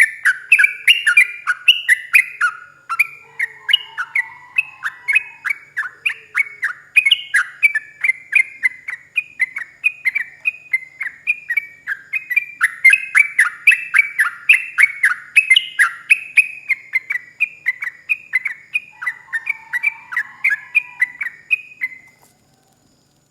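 Sooty-headed bulbul singing a long, rapid run of short bubbling notes, several a second without a break, the fast continuous 'ropel' song, loud and close. The song cuts off near the end.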